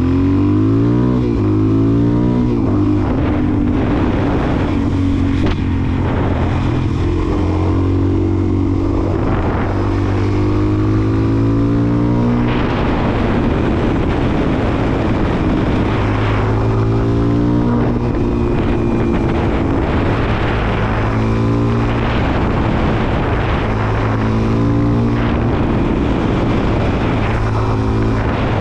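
Suzuki DR-Z400SM's single-cylinder four-stroke engine under way, revving up through the gears again and again, the pitch climbing then dropping back at each shift, over steady wind rush.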